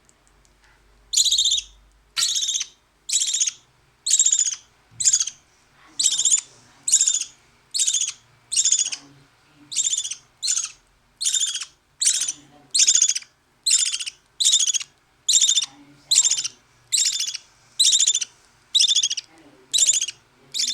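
Baby bird being hand-fed, giving loud, raspy begging calls about every three quarters of a second, over and over.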